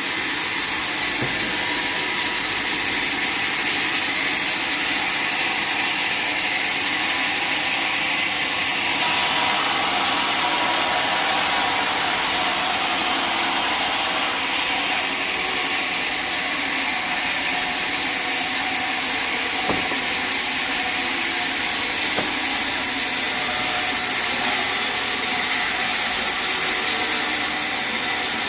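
Sawmill saw running steadily, cutting through a mahogany log; the sound shifts slightly about nine seconds in.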